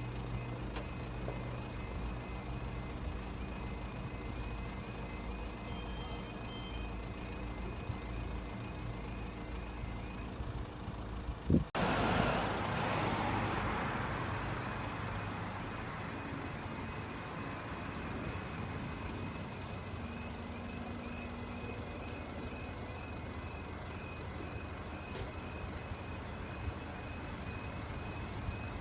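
Level crossing audible warning alarm sounding, a repeating warbling tone. About twelve seconds in a loud rush of noise starts suddenly and fades away over several seconds.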